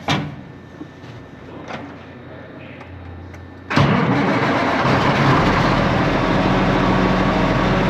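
Truck engine starting: a few light clicks, a short burst of cranking, then the engine catches nearly four seconds in and runs steadily at idle.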